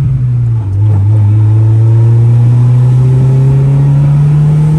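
Honda Civic's engine accelerating under load: its note drops briefly near the start, then climbs steadily as the car pulls through a gear.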